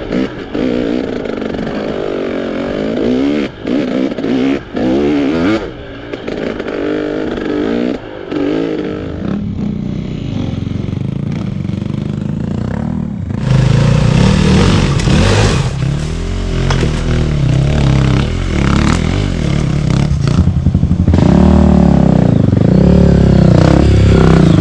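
Off-road trail motorcycle engine running under load, its pitch rising and falling with the throttle, with several brief dips in the first half. About halfway through it gets louder and rougher, with clattering over the rough ground.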